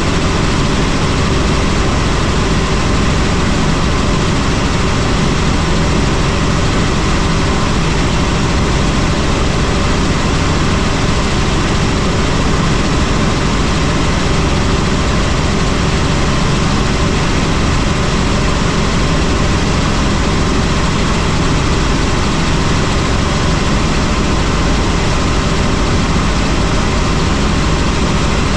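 Helicopter in flight: a loud, steady drone of engine and rotor, several steady tones over a broad rush of noise, unchanging throughout.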